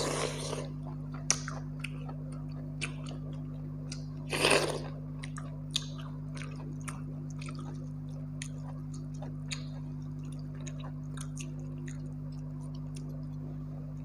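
Close-up eating sounds: chewing with frequent small wet clicks and squishes as pakhal (rice soaked in water) and curry are eaten by hand, with two louder wet bursts at the start and about four and a half seconds in. A steady low hum runs underneath.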